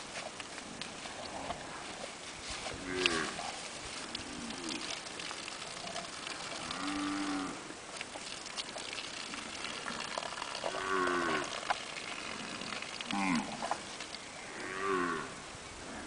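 Cattle mooing: about six short moos spaced a second or more apart, each one bending in pitch.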